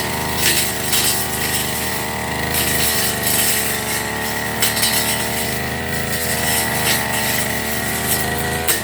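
Firman FGB389FI brush cutter running at high speed, its blade swishing through grass and brush in irregular strokes. The engine pitch sags briefly about six seconds in and again near the end as the blade bites.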